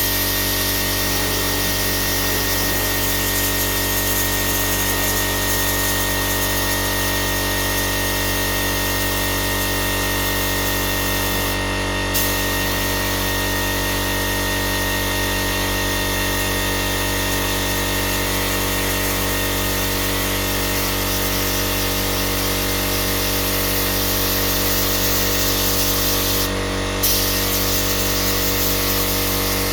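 Heat gun running steadily: a loud, even blowing hiss over a steady motor hum, briefly interrupted twice with a small click.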